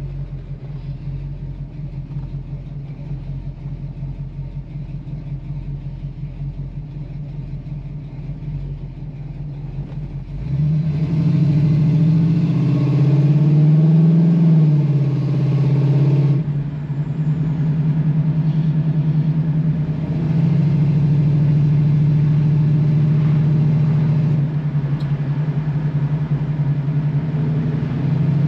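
1964½ Ford Mustang's 260 V8 running steadily, then about ten seconds in getting louder as the car pulls away, the engine note rising and falling before easing off around sixteen seconds in. It then runs steadily under way.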